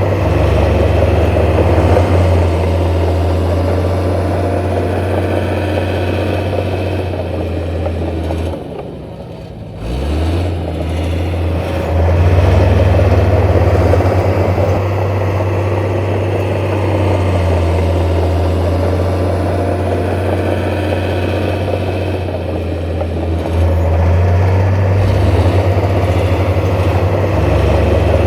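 Heavy diesel construction machinery running steadily, with a low engine drone; the engine note drops away briefly about nine seconds in, then picks up again.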